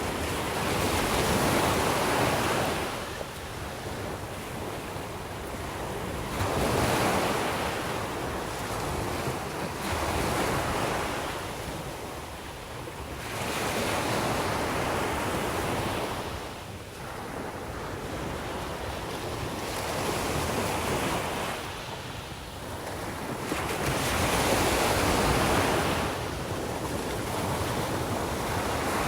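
Mediterranean sea waves breaking and washing up the shore, in slow surges about every five or six seconds.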